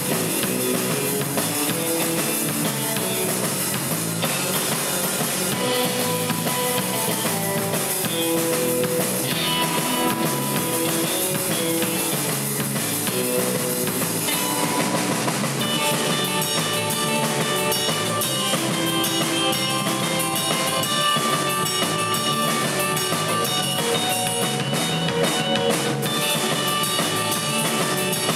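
Instrumental surf rock: an electric guitar plays the lead over bass guitar and a drum kit. About halfway through, the guitar moves to higher, held notes.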